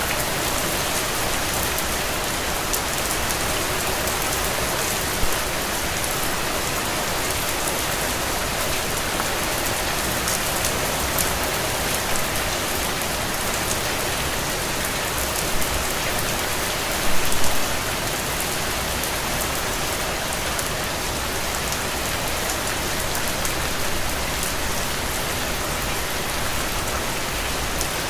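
Steady rain falling on a window, an even patter of many drops, with a short flurry of louder drop hits about two-thirds of the way through.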